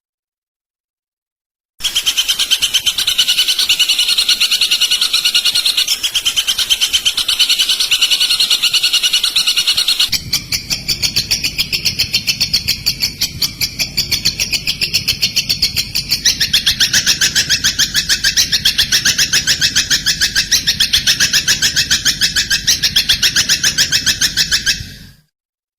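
Recorded songbird tutor track (masteran) for training white-rumped shamas: loud, rapid, evenly repeated high chirping notes. The pattern changes about ten seconds in, drops to a lower pitch a few seconds later, and the recording cuts off abruptly near the end.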